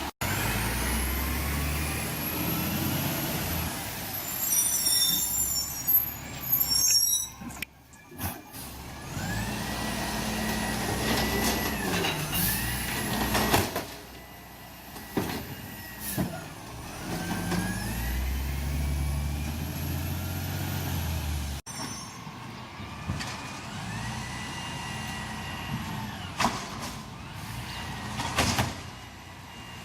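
City garbage truck working: the diesel engine revs up in several cycles while a hydraulic whine rises, holds steady and falls with each cycle, and there is a burst of air hiss early on.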